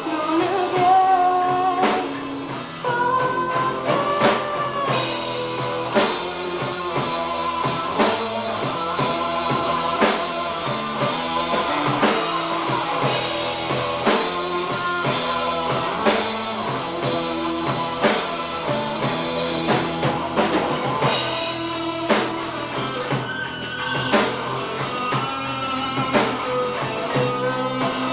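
Live rock band playing: a drum kit keeps a steady beat under guitars and a sung melody.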